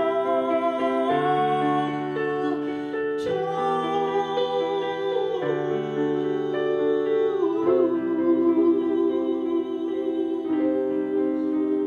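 Live piano playing chords that change every second or two under a long-held sung note with vibrato, sliding down in pitch twice: a comedic Christmas song being performed.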